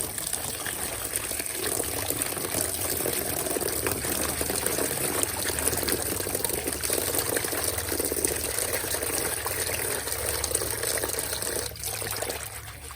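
Steady rush of running water, which dies away about twelve seconds in.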